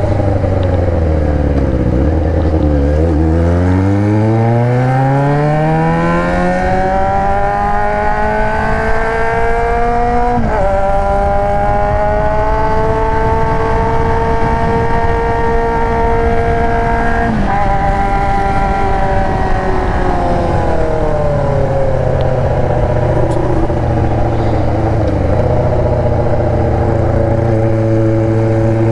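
Yamaha XJ6's 600 cc inline-four engine, through an aftermarket Atalla exhaust, heard from the moving bike. The note drops at first, then climbs steadily as the bike accelerates, with a brief dip in pitch about ten seconds in and again near seventeen seconds. It eases off after about twenty seconds and settles into a steady lower cruise.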